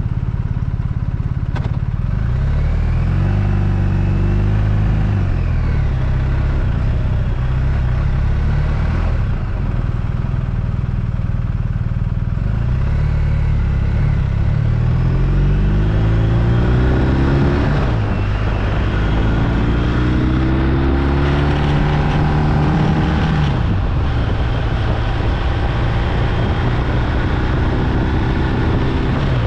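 BMW R1250RT's boxer twin engine under way, its pitch rising under acceleration and dropping at each gear change several times, over a steady rush of wind and road noise.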